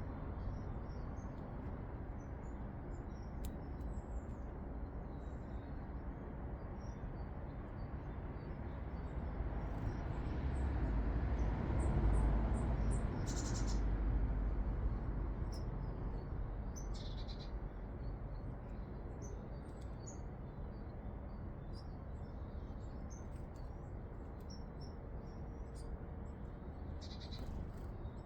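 Small garden birds chirping with short, high calls throughout, a few of them louder, over a steady low background rumble that swells for a few seconds midway.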